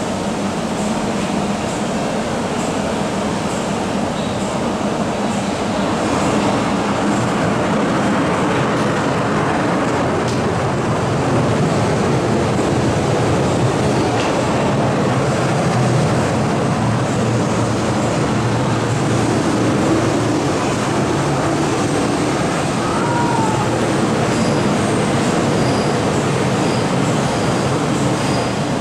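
MTR M-Train metro train running steadily through a station without stopping, a continuous rumble of wheels on rail and traction equipment.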